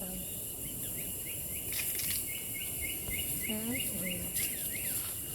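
A bird sings a long run of short, downward-slurred notes, about five a second, starting about a second in. Under it runs a steady drone of rainforest insects with a high hiss.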